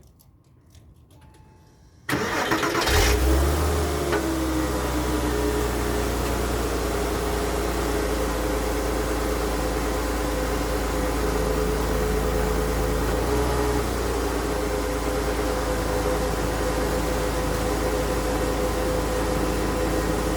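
2001 Porsche Boxster S 3.2-litre flat-six cold-starting after sitting about 36 hours: the starter cranks briefly about two seconds in, and the engine catches, flares up for a moment, then settles into a steady idle. It is a clean cold start with no odd noises.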